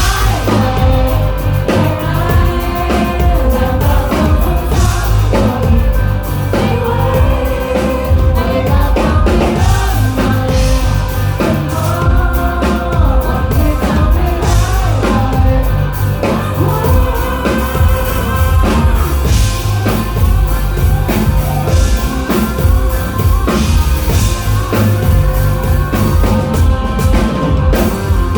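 Live rock band playing with a singer and full drum kit, heard loud through a phone recording in a crowded bar, with voices from the crowd singing along.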